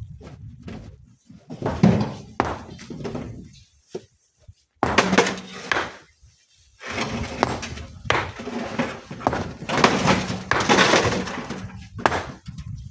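Rocks being broken and handled by hand: uneven bursts of stone cracking, knocking and thudding, with gaps of near quiet between them.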